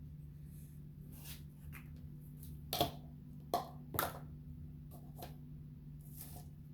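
A few light clicks and taps of hand work with tools or test probes, the loudest about three to four seconds in, over a steady low hum.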